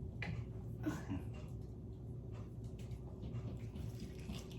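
Faint eating sounds: chewing and small mouth clicks from people biting into barbecued pork ribs, over a steady low hum.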